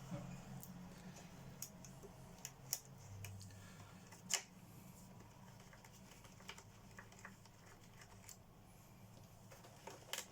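Light, irregular clicks and taps of small parts being handled while a vacuum cleaner's switch and wiring are worked on. The loudest click comes about four seconds in, over a faint low hum.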